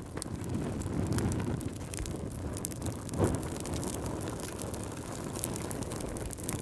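Wood fire burning in a fireplace: a low steady rumble of flames with frequent small crackles, and one louder pop about three seconds in.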